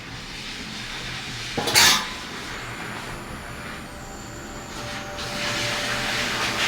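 Cooking on an outdoor propane griddle: a loud metal clank of cookware about two seconds in, then a steady hiss that grows louder near the end.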